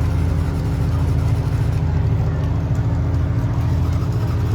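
Derby vans and SUVs with their engines idling steadily during a red-flag stoppage.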